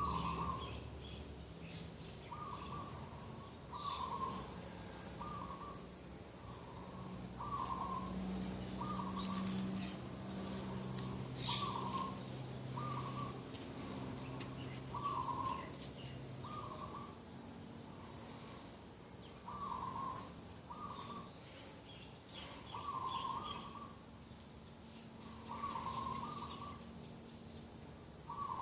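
Dove cooing in a long run of short repeated notes, roughly one a second, with other small birds chirping faintly and a low steady hum underneath.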